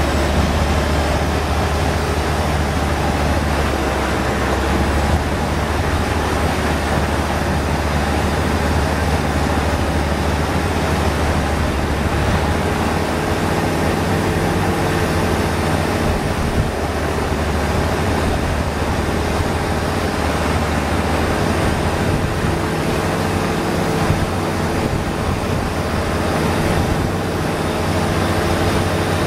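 Long-tail boat's engine running steadily under way, an even drone with the rush of water and wind over it.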